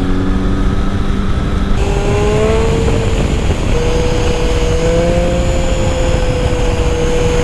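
Triumph Speed Triple's three-cylinder engine running under way, rising in pitch about two seconds in as the bike accelerates, then holding steady. A heavy rush of wind and road noise runs underneath.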